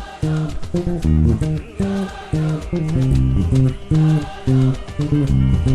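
Electric bass guitar playing a busy praise-and-worship bass line in quick, short notes, over other music.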